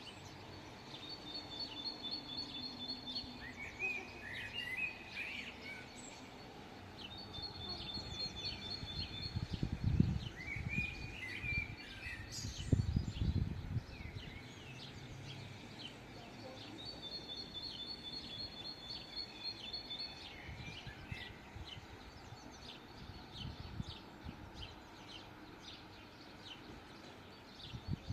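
Songbirds singing and chirping over a steady city background hum. One bird repeats a high, even trill about three seconds long three times, with short chirps from others between. Two brief low rumbles near the middle are the loudest sounds.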